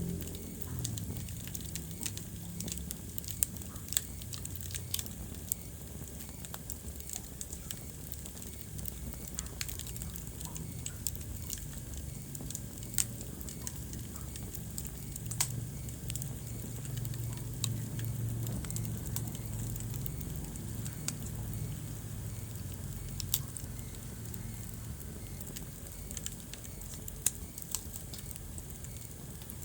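Wood fire burning in a fireplace, crackling with irregular sharp pops and snaps over a low steady rumble of flame.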